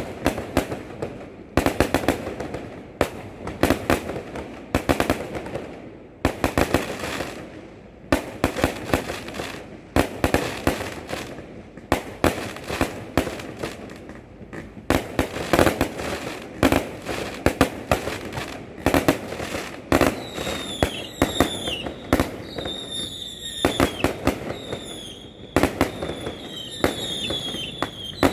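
Aerial fireworks display: a continuous barrage of sharp bangs and crackling bursts. In the last third, short falling whistles come in among the bangs.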